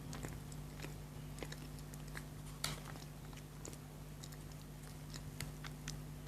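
Close-miked chewing of chocolate: scattered soft mouth clicks and small crunches, with one sharper crunch about two and a half seconds in.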